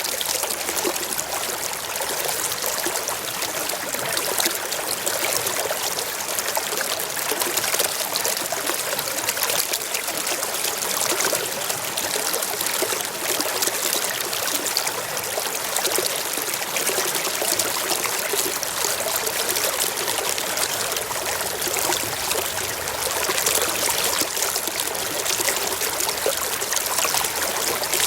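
A small stream running and trickling over rocks, a steady splashing and bubbling with no pauses.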